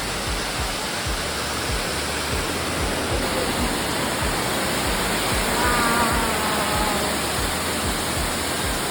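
Amicalola Falls rushing close below: a loud, steady roar of falling water.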